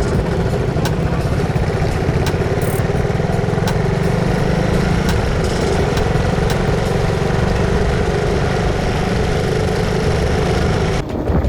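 Motorcycle engine running steadily; the sound breaks off abruptly near the end.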